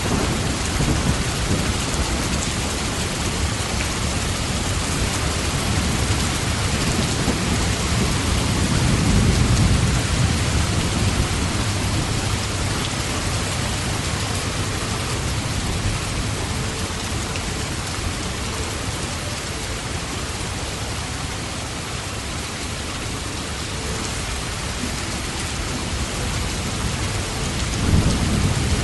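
Steady rain falling, with low rolling thunder: a longer rumble swells about a third of the way through, and another short rumble comes near the end.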